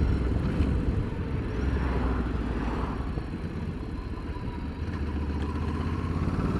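Ducati Multistrada motorcycle engine running under way with a low rumble, quieter in the middle as the rider eases off to come off the road, then building again near the end.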